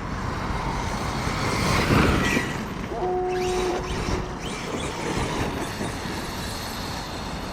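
Arrma Kraton 8S 1/5-scale RC truck running over rough ground, its brushless electric drive rising in pitch and loudest about two seconds in, with wind rumbling on the microphone. A brief steady tone sounds about three seconds in.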